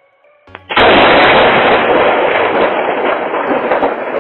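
Thunder from a very close lightning strike: a faint click, then about three-quarters of a second in a sudden, very loud crack that rumbles on and slowly eases.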